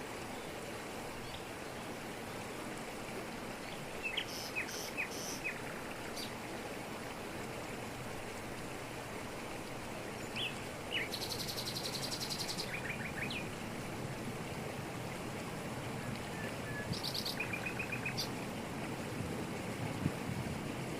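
Steady rushing of a waterfall pouring over rocks in tropical forest. Birds chirp in short bursts over it a few seconds in, midway and near the end, and a high buzzy trill sounds midway.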